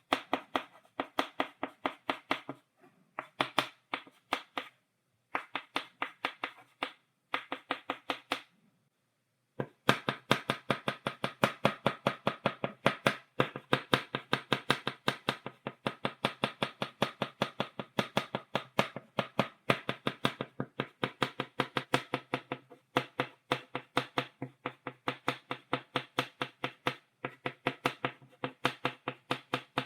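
Chalk tapped repeatedly against a blackboard, stippling dots: rapid sharp taps, several a second, in short runs with brief pauses. A longer pause comes about a third of the way in, and then the tapping goes on almost without a break.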